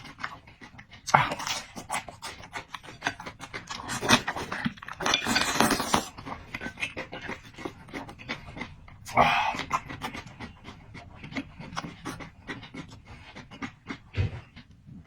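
Close-miked eating sounds: slurping and chewing noodles and meat, with many small wet clicks and louder slurps about a second in, from about four to six seconds, and near nine seconds.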